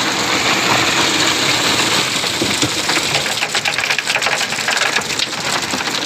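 Concrete mixer running: a steady engine-and-machine noise with a dense rattling clatter that thickens about halfway through.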